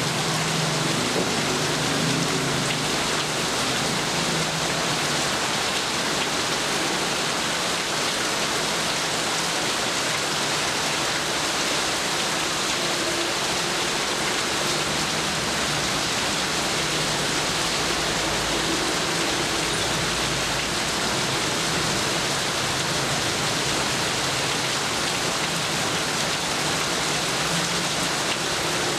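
Steady heavy rain falling, an even hiss with no letup. A faint low rumble sounds briefly about two-thirds of the way through.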